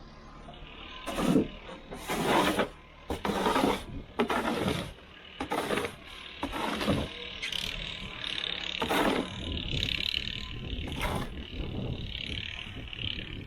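Snow shovel scraping and pushing snow in about eight separate strokes, one every second or two, over a steady hiss and low rumble.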